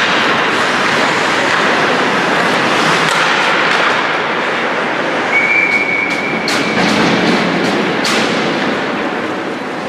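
Ice hockey play: skates scraping across the ice and sticks clacking against the puck, with a few sharp knocks near the end. A steady high whistle sounds a little past halfway and lasts just over a second.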